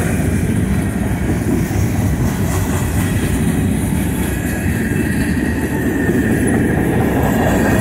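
Freight train of covered hopper cars rolling past a grade crossing: a loud, steady rumble of steel wheels on the rails.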